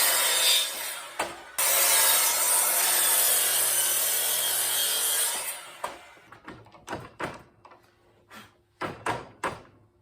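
A saw cutting through a wooden 2x10 board: steady cutting noise, broken off briefly about a second in, that fades out about halfway through, followed by a string of short scrapes and knocks.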